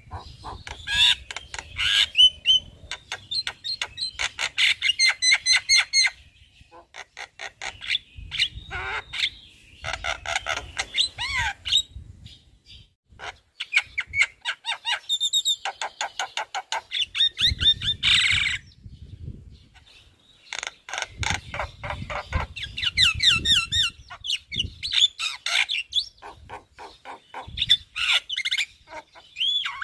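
A Javan myna singing at length: phrases of rapid chattering notes, whistles and harsh squawks, with short pauses between them. The song is stuffed with imitated calls of other birds, the repertoire a fully singing myna shows off.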